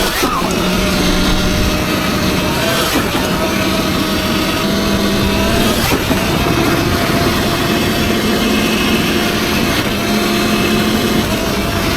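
Surron Ultra Bee electric dirt bike riding along a trail: the motor whines steadily and steps up and down in pitch with the throttle, over a constant rush of noise.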